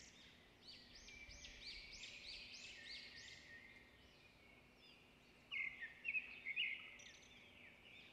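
Faint bird song: a run of quick, high, arching chirps, with a louder burst of trills about two-thirds of the way through.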